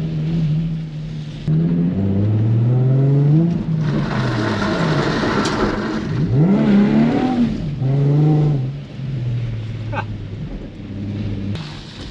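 Nissan 350Z's 3.5-litre V6 revving up and down repeatedly as the car is thrown into a drift on wet pavement, with a spell of hissing tyre spray through the middle and a single sharp click about ten seconds in.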